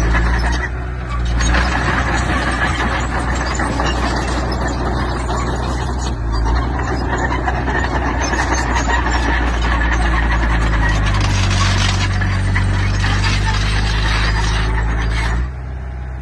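Heavy earthmoving machine working: a diesel engine running steadily under a dense clatter, typical of tracks and pushed stone. The clatter stops shortly before the end, leaving the engine running.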